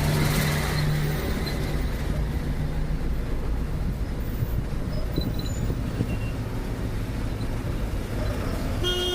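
Truck engine running on the move, a steady low rumble, with a short horn toot right at the end.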